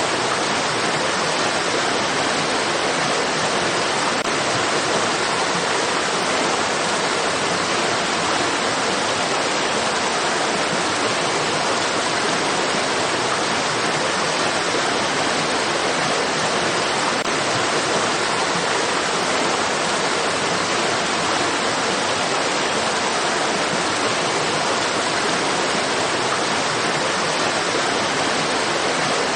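Flowing stream water rushing steadily, an even hiss-like noise that holds the same level throughout.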